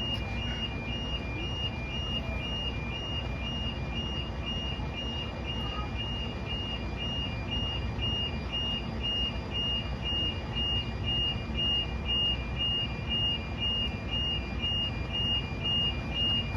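Railway level crossing warning alarm sounding continuously, an electronic tone switching back and forth between two close pitches, over a low steady rumble.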